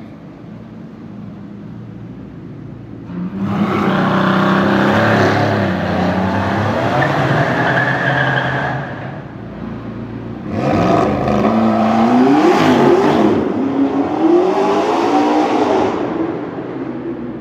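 Supercar engines accelerating hard in a tunnel: two loud full-throttle pulls, the first starting about three seconds in and the second about ten seconds in, the pitch climbing and dropping back as the gears change.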